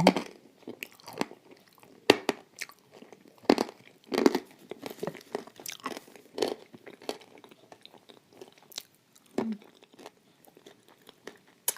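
Close-up crunching and chewing of a chunk of dry edible clay coated in wet clay paste: irregular sharp crunches as it is bitten and ground between the teeth, with quieter wet chewing between them.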